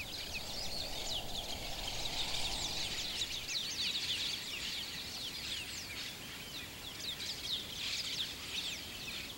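Many small birds chirping steadily, a chorus of short, quick, high chirps that fall in pitch, over faint outdoor background noise.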